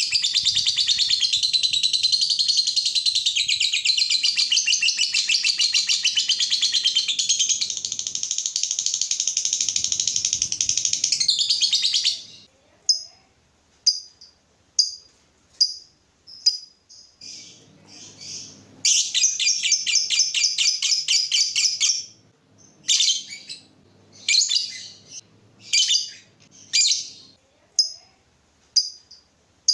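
Lovebirds chattering rapidly and without a break for about twelve seconds, then giving short sharp chirps about once a second, with another few seconds of rapid chatter midway. This is courtship chatter from a mating pair.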